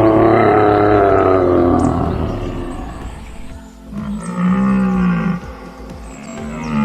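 Animal calls over background music: one long call falling in pitch that fades out about two seconds in, then two shorter calls of about a second each, near the middle and near the end.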